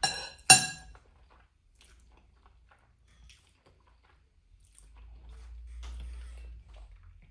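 Someone eating instant noodles: a sharp clink of cutlery against the bowl in the first second, then soft chewing.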